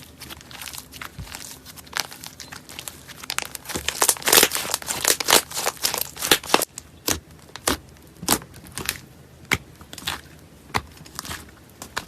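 Slime being squeezed and pressed by hand, giving sharp crackling clicks and pops. They come thick and fast in the middle, then settle into single pops nearly two a second.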